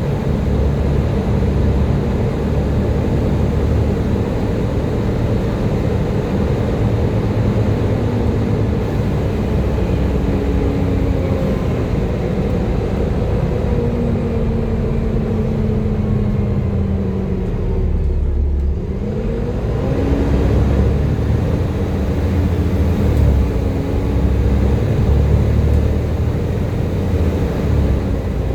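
Volvo B7TL double-decker bus's Volvo D7C six-cylinder diesel running under way with a deep rumble and a whine, the pitch falling slowly as it slows down over the middle of the stretch, then rising again about two thirds of the way through as it pulls away and settles at speed.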